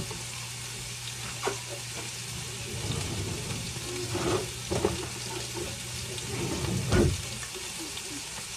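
Chicken sizzling as it fries in a pan, a steady hiss, with a few scattered knocks and thuds of kitchen work; the loudest thud comes about seven seconds in.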